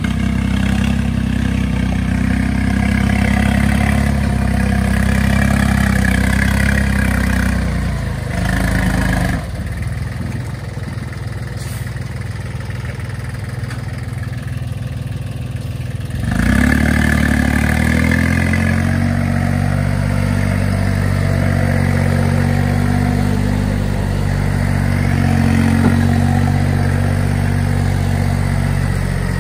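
Tractor engine running. It drops to a lower, quieter note about eight seconds in, then speeds up again with a rise in pitch about sixteen seconds in and runs steadily after that.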